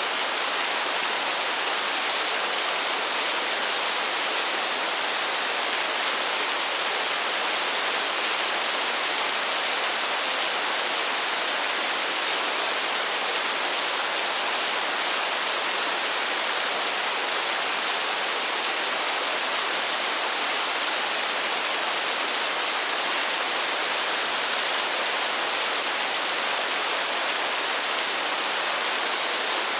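Steady heavy rainfall, an even, unbroken hiss with no single drops standing out.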